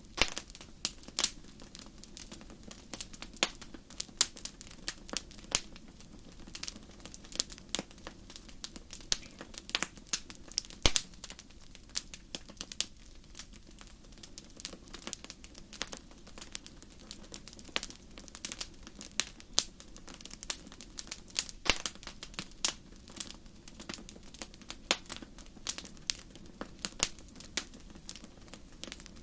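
Fire crackling in a fireplace: irregular sharp pops and snaps, several a second with a few louder ones, over a low steady hiss of burning.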